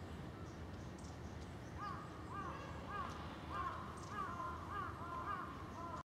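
A bird calling repeatedly from about two seconds in: a quick series of short, arching notes, about two a second. Faint, thin, high-pitched chips from small birds come and go behind it.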